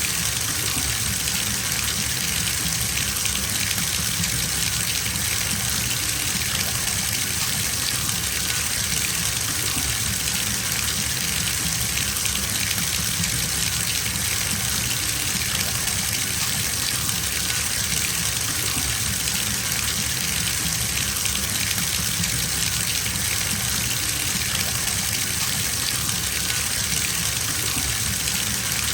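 Water running steadily from a bathtub tap into the tub as it fills, a constant gushing splash.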